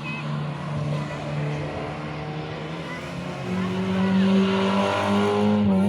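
Rally car engine running at steady revs, then stepping up to higher revs and getting louder about three and a half seconds in.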